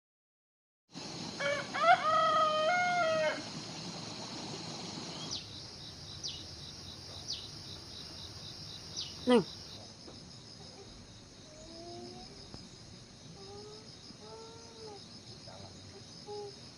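A rooster crows once, loud and drawn out, over a steady high insect drone. About nine seconds in, a short sharp call slides steeply down in pitch, and faint short calls follow later.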